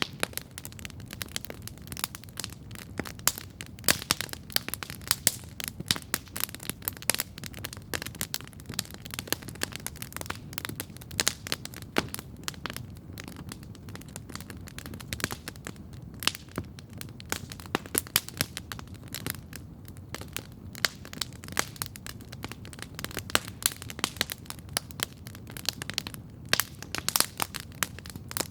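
Campfire crackling steadily: many irregular sharp pops and snaps of burning wood over a low steady rush of the flames.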